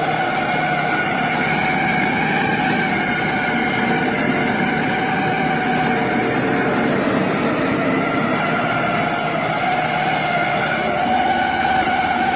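Soybean splitting and hull-separating machine running steadily, its motor giving a whine that wavers slightly in pitch over a dense mechanical noise.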